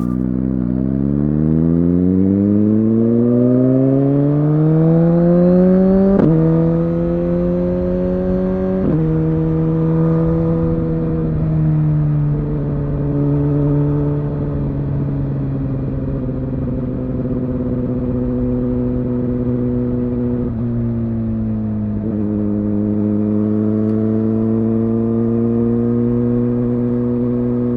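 Suzuki GSX-R1000R's inline-four engine pulling hard with its pitch rising steadily, then shifted up about six and nine seconds in, each shift dropping the pitch in a sudden step. It then holds at fairly steady revs, with two smaller drops in pitch a little past twenty seconds.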